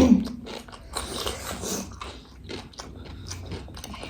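A person chewing and crunching a crunchy snack close to the microphone: irregular crisp crackles and mouth clicks.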